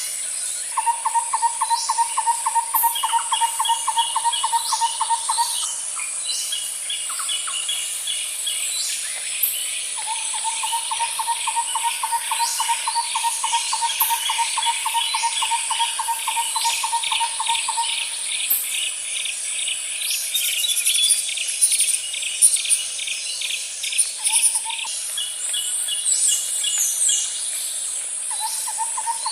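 Outdoor chorus of birds and insects: a steady high insect buzz underneath, many short bird chirps and pulsed phrases, and a long, even, low trill that runs for several seconds, stops and comes back twice.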